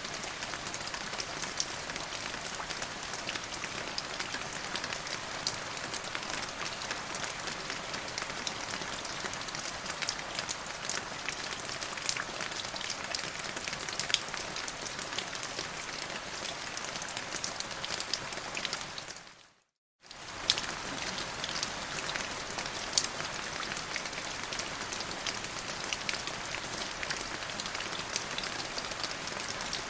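Steady rain falling, with many sharp individual drop hits over an even hiss. About two-thirds of the way through it fades out to silence for a moment and then starts again, like a join between looped recordings.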